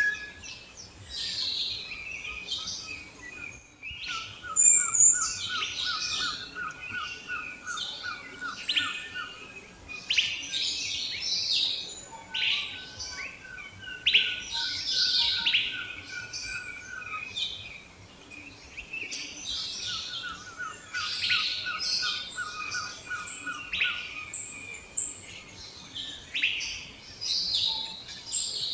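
Several wild birds singing and chirping together, with short high calls throughout. Three times, a steady rapid trill runs for a few seconds beneath them.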